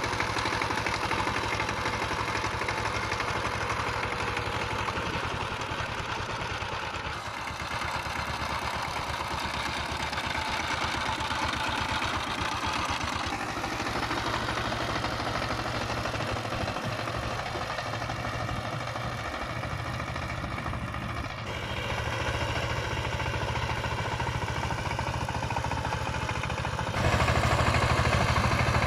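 Power tiller's diesel engine running steadily with a rapid, even firing beat, getting louder near the end.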